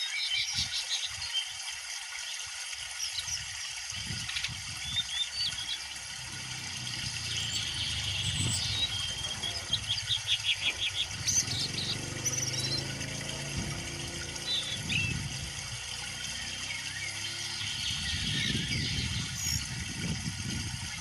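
Songbird song: short chirps and whistled glides, with a quick run of repeated notes about halfway through, over a low rumbling background noise.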